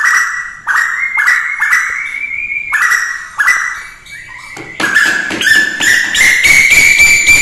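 Repeated calls of a female tuwu bird, the call used as a lure: short pitched notes about two a second, a brief pause just past the middle, then quicker, rougher notes that edge slightly higher in pitch.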